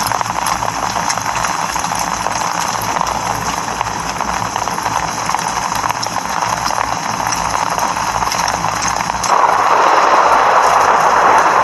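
Steady rain, many small drops ticking within a continuous hiss. About nine seconds in it suddenly gets louder.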